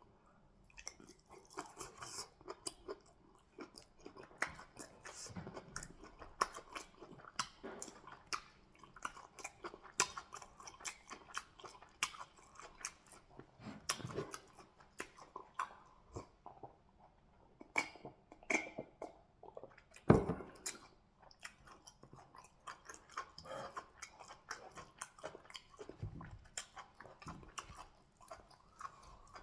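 Close-miked chewing and wet mouth sounds of someone eating fufu with goat meat in peanut soup: irregular smacks and clicks, with a few louder bites, the loudest about two-thirds of the way through.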